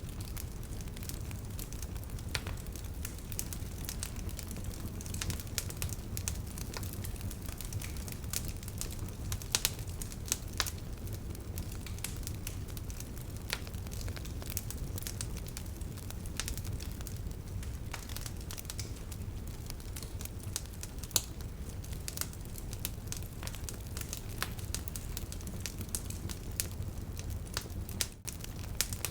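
Wood bonfire crackling and popping: scattered sharp snaps over a steady low rumble of the burning fire, with a louder pop about two thirds of the way through.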